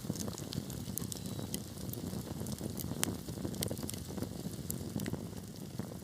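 Wood fire burning in a fireplace: a steady low rumble of flames with scattered sharp crackles and pops, the loudest pop a little past halfway.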